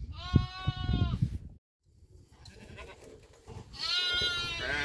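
A goat bleating twice: a steady call about a second long near the start, then a second wavering call that drops in pitch near the end.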